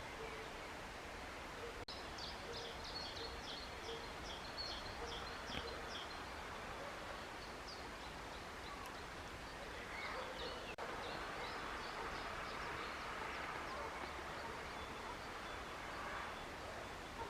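Small birds chirping in quick high runs of notes over a steady outdoor hiss, first about two seconds in, then again in the second half.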